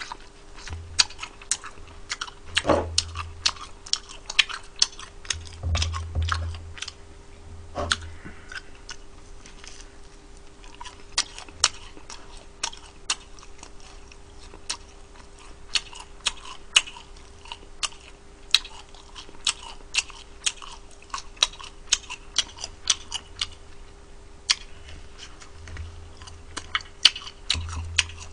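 Close-up chewing and crunching of crisp, bony fried native chicken, with many sharp crunches coming irregularly throughout.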